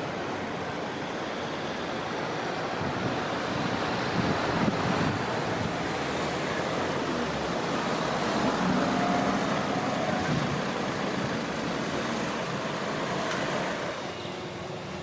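A vehicle passing: a steady rushing traffic noise swells and then fades, with a faint whine near the middle.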